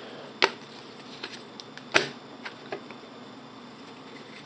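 Trading cards being handled and flipped through: two sharp clicks, about half a second and two seconds in, and a few fainter ticks and taps in between.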